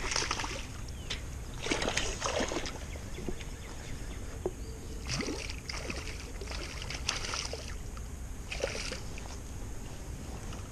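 Water splashing in several short bursts.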